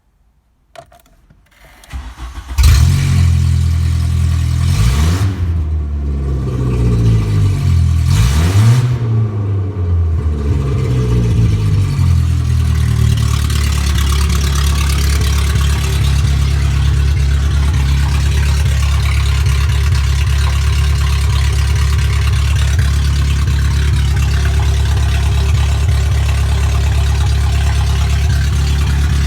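VW Passat B4 1.8-litre ADZ four-cylinder petrol engine starting after a brief crank about two and a half seconds in, revved up and down twice, then settling into a steady idle.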